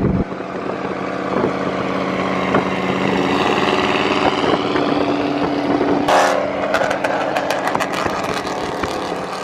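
Dodge Scat Pack's 392 Hemi V8 revving, then held on a 2-step launch limiter, giving a rapid string of sharp exhaust pops and crackles in the last few seconds. Other engines idle underneath.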